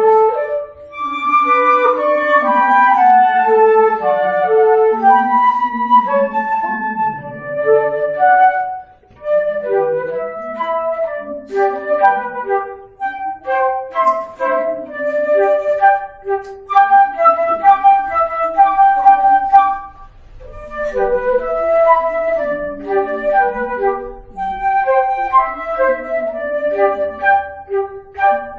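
Flute duet playing a Japanese lyrical song in two parts, one melody over a lower line. Long held notes give way about a third of the way in to shorter, separated notes, with brief breaths between phrases.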